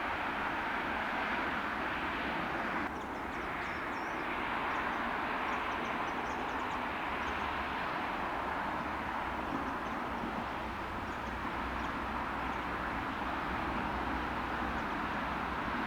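Steady rushing noise and low rumble of a Kintetsu electric train running on the line, with a small drop in level about three seconds in.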